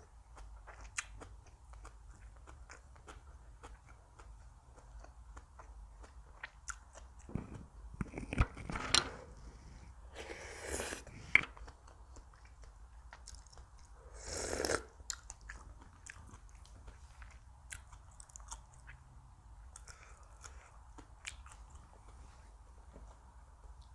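Close-miked eating: chewing and biting food, with many small crisp clicks. It grows louder about seven to nine seconds in, with two short noisy stretches at about ten and fourteen seconds.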